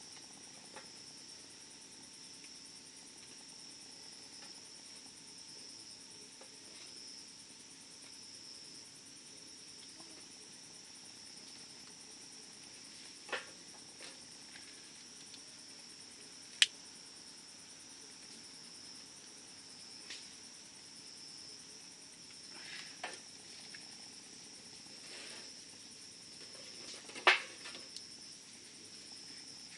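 Newly lit campfire giving a few sharp pops and crackles, the loudest about halfway through and near the end, over a steady high chirring of crickets.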